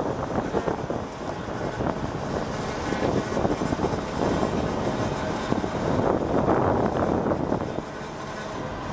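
Truck engines running, a steady noisy sound with no clear pitch.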